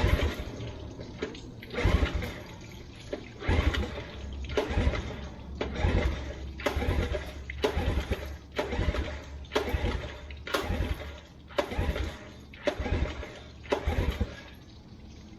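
A Nissan Marine two-cylinder outboard being pull-started over and over, about a dozen quick pulls of the recoil cord roughly one a second, each cranking the engine without it catching. It has sat unused for about five years, and the spark checks good, so the owners suspect a fuel problem.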